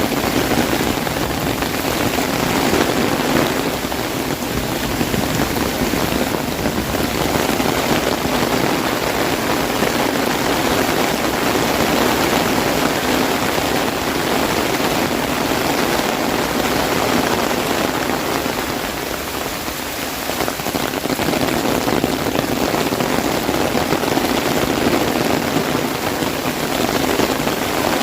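Heavy rain falling steadily, drumming on an umbrella overhead, a dense, even patter that eases a little about two-thirds of the way through.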